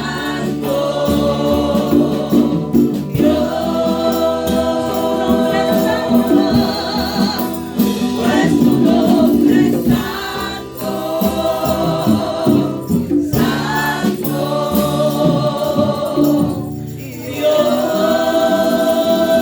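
Live church worship music: a group of voices singing a praise song over band accompaniment.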